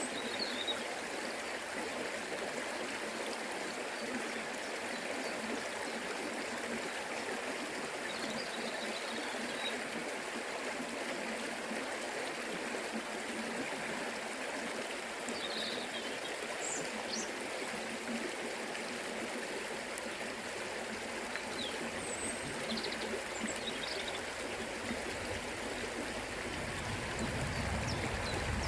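Forest river flowing: a steady rush and trickle of water. A deeper rumble builds near the end.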